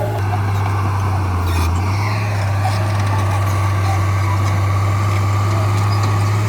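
Heavy construction-machine diesel engine running steadily with a low drone, its pitch shifting slightly a couple of seconds in.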